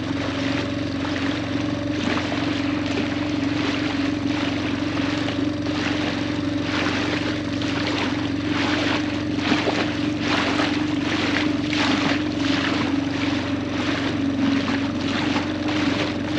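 Sailboat's auxiliary engine running steadily under way, a constant drone, with irregular rushes of noise that grow denser about halfway through.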